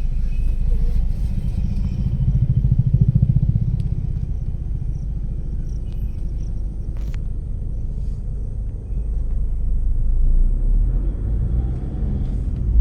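A vehicle engine running at low revs, a steady low rumble that swells about two to four seconds in and again near ten seconds.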